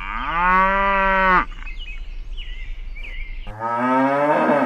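A cow mooing twice: one long moo at the start and a second, lower moo near the end, with short faint high calls between.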